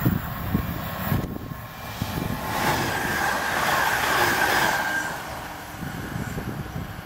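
Electric multiple unit passing at speed: the rush of wheels on rail builds, is loudest about four seconds in with a thin high whine, then fades away. Wind buffets the microphone throughout.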